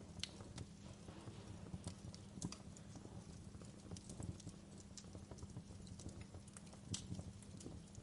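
Wood fire crackling in a fireplace, with irregular sharp pops and snaps over a low steady hum.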